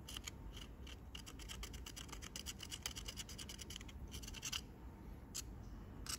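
A fast series of faint, short scratches and scrapes, a metal tool picking at bare engine metal, with a short pause about four and a half seconds in and a few single scrapes near the end. It is typical of scraping out bits of old gasket that have clogged the cylinder head's oil passages.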